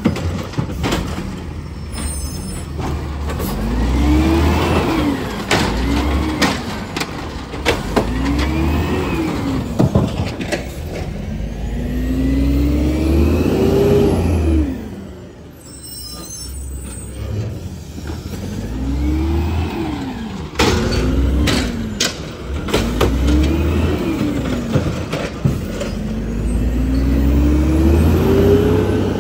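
Garbage truck engine revving up and falling back over and over, about every two to three seconds, some revs held longer, with sharp metallic clanks in between. It drops off for a few seconds about halfway through, then the revving cycles start again.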